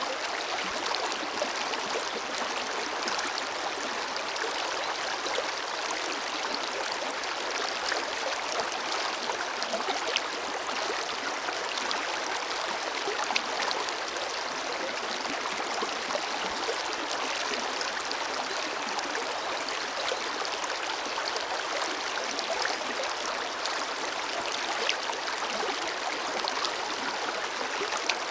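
A forest river flowing steadily over rocks, a continuous rushing with small splashes and gurgles scattered through it.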